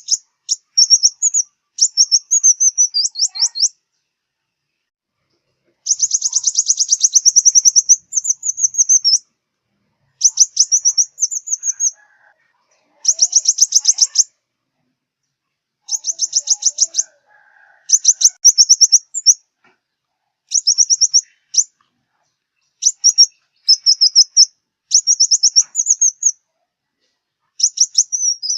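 Sunbird ('five-colour' sunbird) singing: bursts of rapid, high trilling notes, each a second or two long, repeated again and again with short pauses between.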